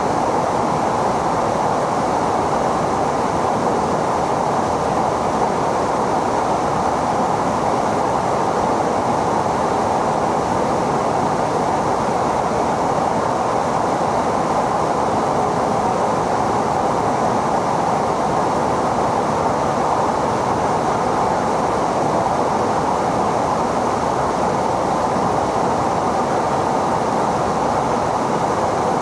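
Steady, unchanging noise of a jet fighter's engine and airflow, holding one even level with no rise or fall.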